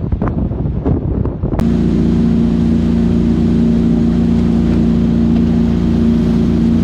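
Gusting wind on the microphone, which stops abruptly about a second and a half in and gives way to a loud, steady motor drone held at one even pitch.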